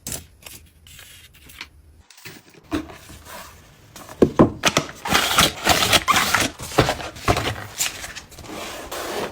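Close handling of packaging: scattered small clicks and taps, then from about four seconds in a denser run of louder crinkling, scraping and knocks.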